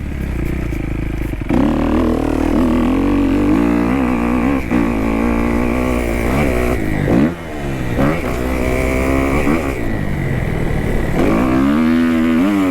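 Kawasaki KX250F single-cylinder four-stroke dirt bike engine being ridden hard, its revs rising and falling through the throttle and gears. The throttle is cut sharply about seven seconds in, and the revs drop and climb again near the end.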